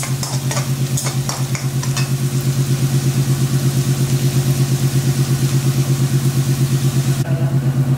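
Chopped onions, garlic, ginger and green chillies sizzling in oil in a pan, with a few scrapes of a metal spatula in the first two seconds. Under it runs a steady low hum with a fast pulse, the loudest sound throughout. The sizzle's hiss drops away abruptly near the end.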